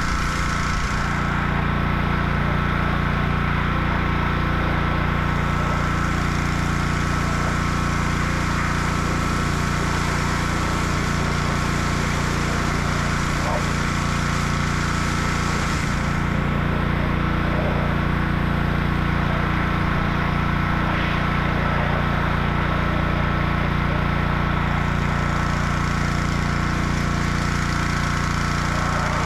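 Gas-engine pressure washer running steadily, a small engine with a fixed pump tone. Its high hiss drops away twice for a few seconds, about a second in and again around the middle.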